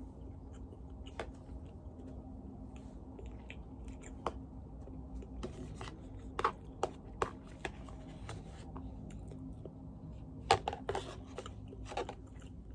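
Quiet chewing with scattered soft mouth clicks, then a cluster of louder clicks and taps near the end as a takeout food container is handled, over a steady low hum.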